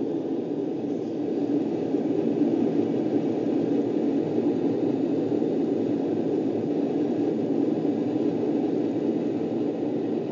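Steady rushing roar of the aircraft's engines and airflow heard inside the cockpit, swelling slightly about two seconds in and then holding level.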